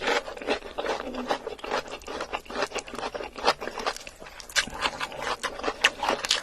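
Close-miked eating sounds: a rapid, irregular run of wet clicks and crunches as curry, rice and fish are chewed and handled.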